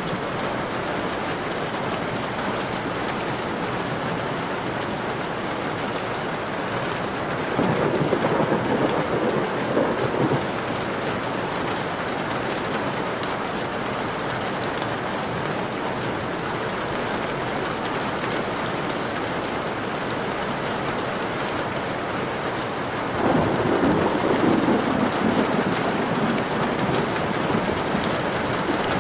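Steady rain pattering on a window pane, with two low rolls of thunder swelling up, about a quarter of the way in and again about three-quarters through.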